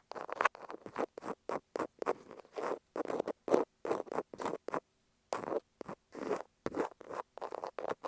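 Thumbtack scratching over masking tape on an earphone microphone, in short, separate strokes about three a second, with a brief pause about five seconds in.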